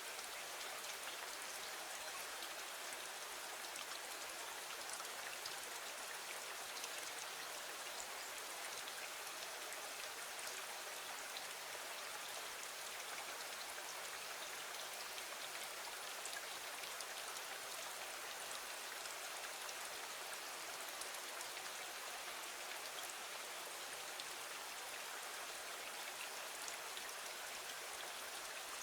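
Steady rain falling against a window, an even hiss with fine scattered drop ticks and no change throughout.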